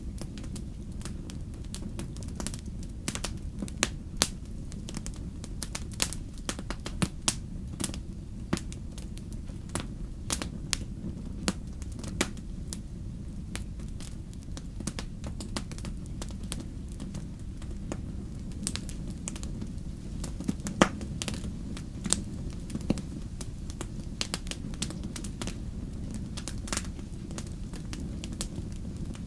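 Campfire crackling: irregular sharp pops and snaps, one every second or so, over a steady low rumble. The loudest snap comes about two-thirds of the way through.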